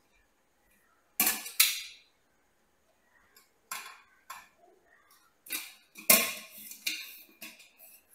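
Kitchen dishes and utensils clinking and clattering as they are handled: a string of separate sharp knocks, with a quick cluster of them near the end.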